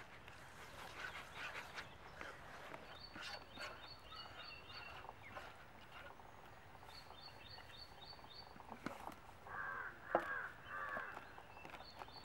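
Birds calling in the open: three short runs of quick, high, evenly repeated chirps, and in the second half three louder, harsher calls close together.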